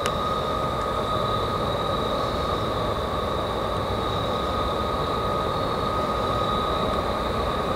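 Rock train (loaded stone freight) approaching while still far off: a steady low rumble with two steady high tones over it.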